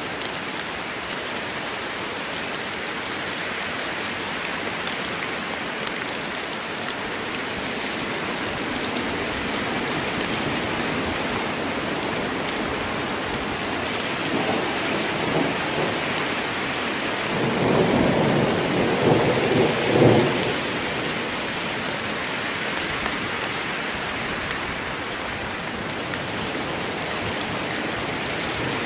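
Steady rain falling in a rainstorm, with a roll of thunder rumbling through about halfway in.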